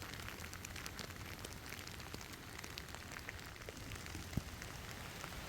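Steady rain falling, an even hiss dotted with the ticks of single drops; one louder drop about four seconds in.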